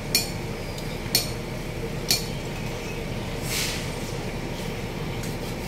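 Sharp metallic clinks, metal striking metal with a brief ring, about once a second three times. A short hiss follows near the middle, then a few fainter ticks.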